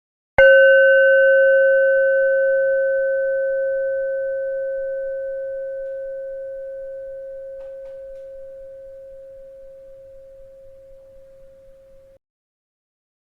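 A bell struck once, ringing with a clear tone that slowly fades for about twelve seconds, then cuts off abruptly about a second before it is struck again.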